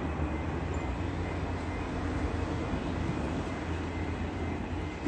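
Steady low rumble of an electric multiple-unit train approaching along the line.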